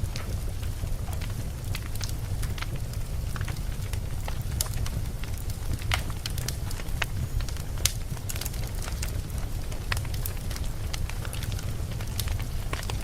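Campfire crackling and popping: a steady low rumble of burning wood with frequent sharp, irregular crackles.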